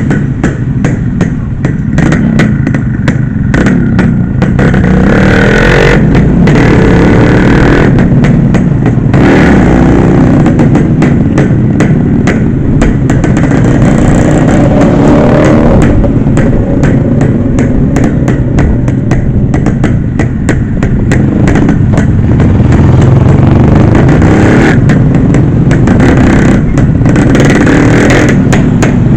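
A motor vehicle running, with loud, steady engine and road noise and frequent short knocks and rattles.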